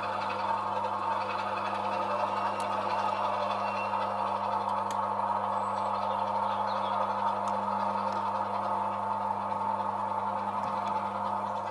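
Sound-fitted OO gauge model diesel locomotive, its engine sound running steadily through the model's small speaker while it shunts, with a few faint clicks.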